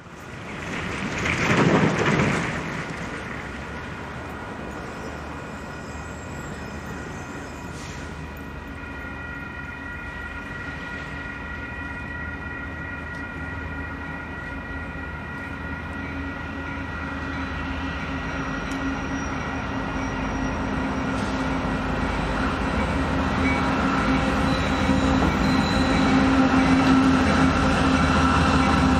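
Union Pacific diesel freight train approaching, its locomotives' steady humming tones growing louder throughout. A brief loud whoosh comes about two seconds in.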